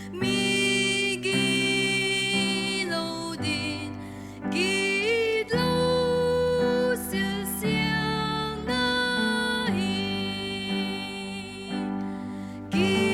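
A gospel song performed live: long held sung notes, some sliding into pitch, over instrumental backing.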